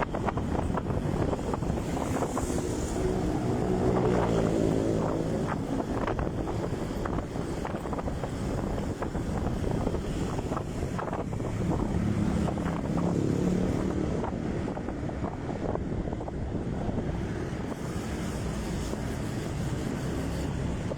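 Motorcycle engine running on the move, its pitch rising and falling with the throttle, with wind buffeting the microphone.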